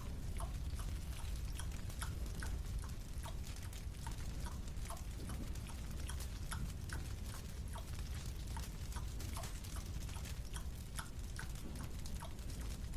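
A marshmallow being chewed: many small, irregular mouth clicks and smacks over a low, steady hum.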